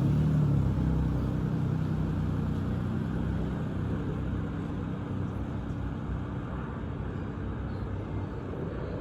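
Embraer E190 regional jet passing low on its landing approach: a steady low engine rumble with a hum in it, fading gradually as the aircraft moves away.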